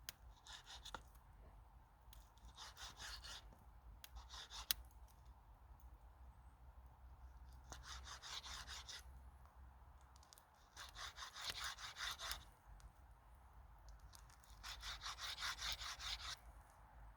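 Rasping scrapes on wood in about six separate bursts of a second or so, each made of fast tiny strokes; the later bursts are the loudest.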